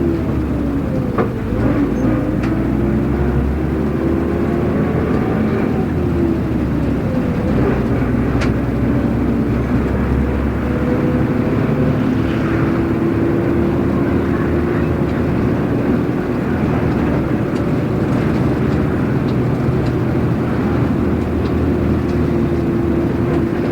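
Running sound inside a city bus under way: the engine's note rises and falls through gear changes in the first several seconds, then holds steady as the bus cruises. A few sharp clicks and rattles from the cabin.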